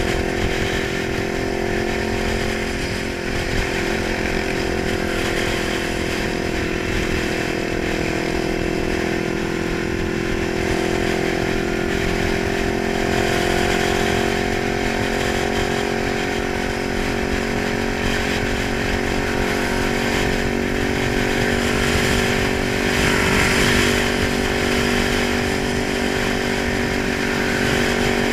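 Kawasaki 900 motorcycle engine running steadily at fairly high revs, its pitch rising slightly and settling again partway through.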